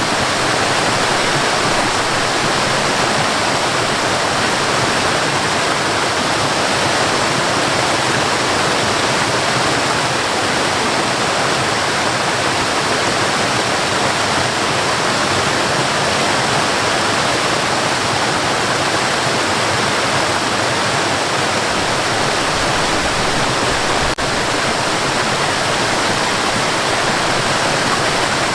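Waterfall: a steady, even rush of falling water, with a momentary dip in level about three-quarters of the way through.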